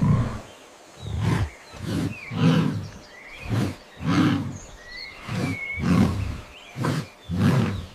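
Hippo grunting in a run of low, repeated bellows, about one a second.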